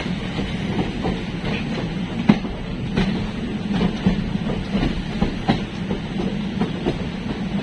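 Passenger train running on a curve, heard from aboard: a steady rumble with irregular clacks of the wheels over rail joints, one sharper clack about two seconds in.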